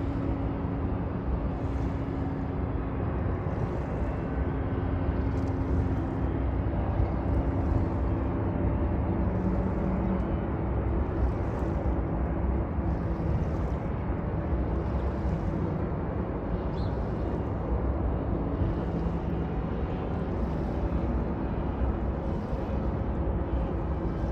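Jet airliner engines at takeoff power: a steady low rumble with a faint hum of tones through it.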